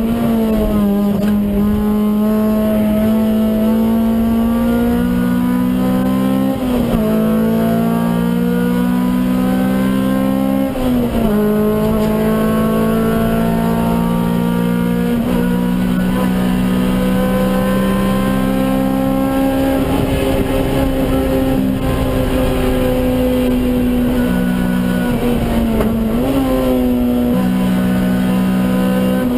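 Stock Honda B16A 1.6-litre DOHC VTEC four-cylinder engine of a Civic EG6 pulling at high revs, heard inside the cabin, its pitch climbing slowly and dipping sharply three times before rising again.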